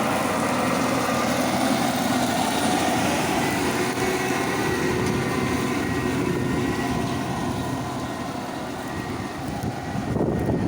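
Diesel engine of heavy farm machinery running steadily under load, its pitch holding fairly even, dipping slightly in level late on.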